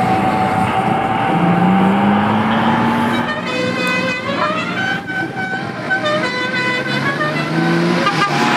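Vintage car engine running as the car pulls away, its pitch rising slowly. After about three seconds come a run of sustained horn-like tones that step from pitch to pitch.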